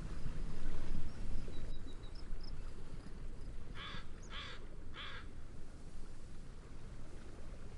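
A bird gives three short, harsh caws about half a second apart, over a steady low rush of wind and waves. A few faint, thin, high chirps come early on.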